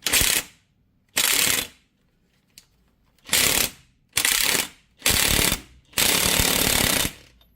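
Electric impact wrench hammering in five short bursts, the last and longest about a second, driving a bearing press screw to push the cups out of a universal joint.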